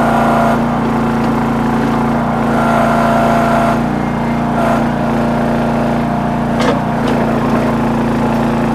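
The towable backhoe's small engine running steadily under load while digging, with a higher hydraulic whine rising over it twice, near the start and about three seconds in. A couple of sharp clacks come near the end.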